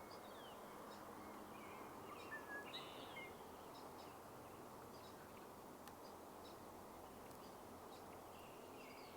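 Quiet outdoor ambience with faint, scattered bird chirps and short whistled calls, a few slightly louder about two to three seconds in.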